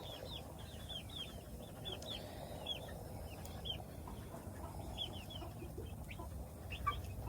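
Chickens, young birds among them, calling through a pen: a steady stream of short, high, falling peeps, several a second, over a low steady rumble.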